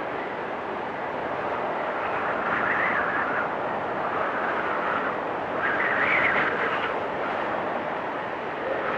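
Storm wind blowing in a continuous rush, with two whistling gusts that swell higher, about three seconds in and again around six seconds in.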